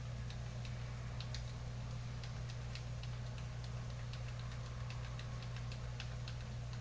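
Faint, irregular light clicks, like phone keys being pressed to answer a text message, over a steady low hum.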